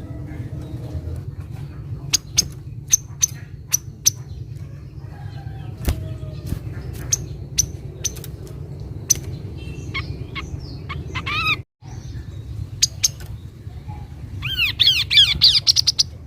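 Kaso-kaso bird calling: a string of sharp, high chip notes, then quick runs of arched, slurred notes, the loudest run near the end, over a steady low background rumble. The sound drops out completely for a moment about two-thirds of the way in.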